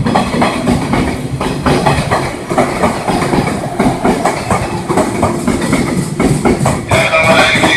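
Electric commuter train running along the track, its wheels clattering over rail joints in a dense run of clicks over a low rumble. A steadier higher ringing tone joins near the end.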